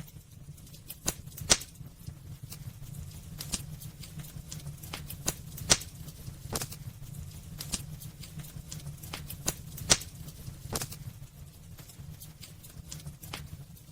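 Wood fire crackling in a fireplace: irregular sharp pops and snaps over a low steady rumble of the flames, with three louder pops about a second and a half in, near six seconds and near ten seconds.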